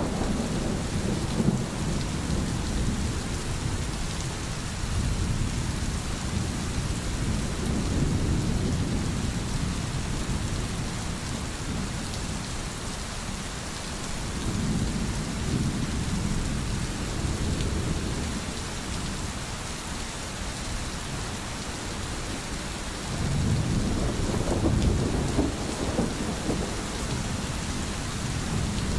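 Steady heavy rain with low rolling thunder rumbling underneath, the rumble swelling at the start and again for the last several seconds.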